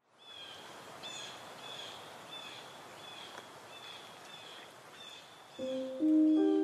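Woodland ambience fading in: a bird repeats a short chirp about every two-thirds of a second over a steady outdoor hiss. Soft piano music comes in near the end.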